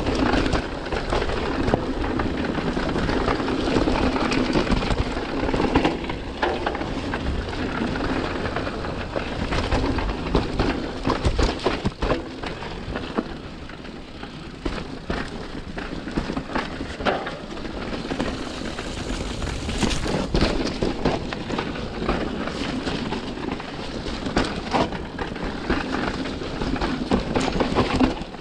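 Mountain bike riding down a wet, rough trail: a steady rushing noise with frequent rattles and knocks from the bike.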